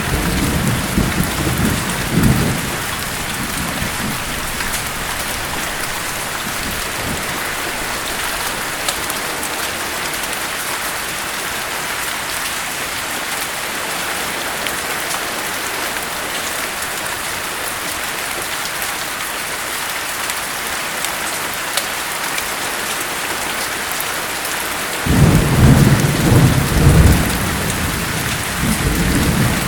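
Steady heavy rain hissing, with low thunder rumbling briefly at the start and rolling in again about five seconds before the end.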